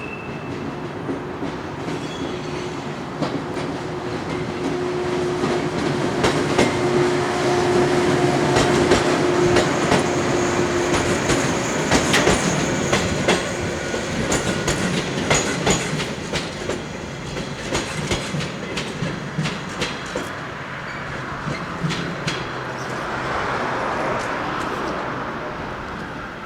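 Electric multiple-unit train running along the track. Its running noise swells to a peak midway and then eases off, with rapid clicks of wheels over rail joints through the middle. A steady tone is held for the first ten seconds or so.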